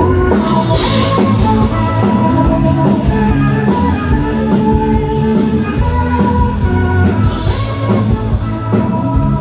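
A rock band playing live, with electric guitar and drum kit, with cymbal crashes about one second in and again near the end.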